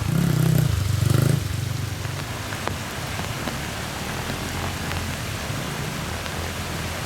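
Steady heavy rain hiss with a motorcycle engine running underneath; the engine is louder for about the first second and a half, then drops back to a low idle beneath the rain.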